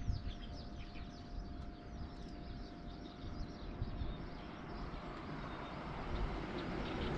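Small birds chirping over the low rumble of a vehicle, which grows louder toward the end.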